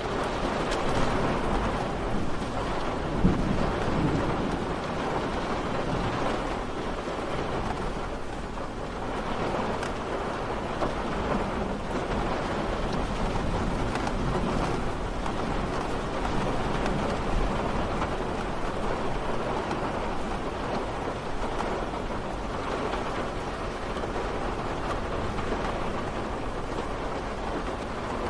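Steady rain falling, an even hiss with no break. About three seconds in, a low rumble swells briefly under it.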